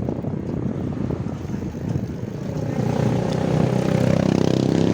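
A rough rumble of riding noise, then, from about halfway through, a steady engine drone that grows louder toward the end.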